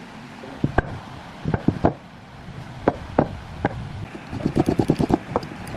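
Knocks on wood: half a dozen separate sharp knocks at uneven intervals, then a fast run of taps for the last second or so.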